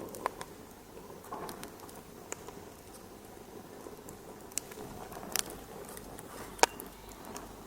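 Wood fire crackling in a fireplace: irregular sharp pops and snaps over a soft steady hiss, the loudest pop near the end.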